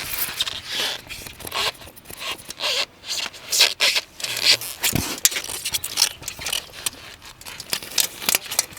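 Rigid extruded polystyrene foam boards being worked by hand: a run of irregular scrapes and short clicks as the foam is handled and marked.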